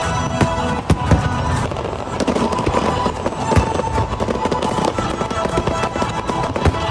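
Aerial fireworks going off in quick succession, many sharp bangs and crackles, over loud show music playing throughout.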